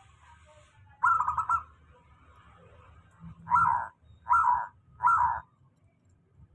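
Zebra dove (perkutut) singing: a rolling, trilled opening note about a second in, followed by three separate coos.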